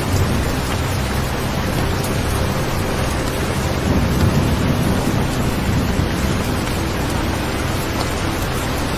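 Steady rain falling, a dense even hiss of rain, with a low rumble swelling about four seconds in.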